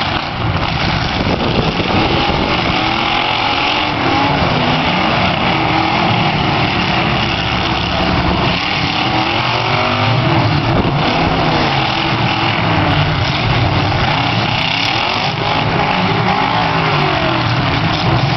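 Several demolition derby cars' engines revving at once, their pitch rising and falling again and again as they maneuver and push against each other.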